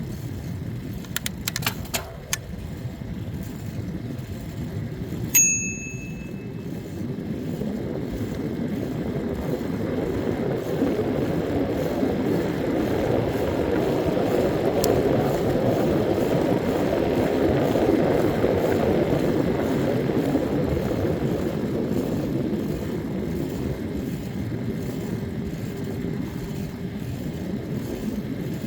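Riding noise from a moving bicycle: a steady rush of wind and tyre rumble that builds toward the middle and then eases. There are a few sharp clicks early on, and a single bicycle bell ding rings out about five seconds in.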